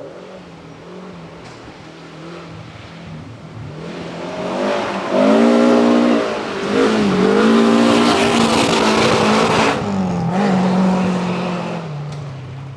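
Rally car approaching and passing at speed, its engine revving hard, the pitch dipping and rising a few times, then fading as it goes away.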